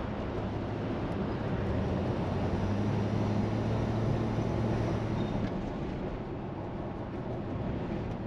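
1968 Plymouth Fury's 383 V8 running under way on the road, with a steady engine hum over tyre and road noise. It gets a little louder over the first few seconds and eases off after about five seconds.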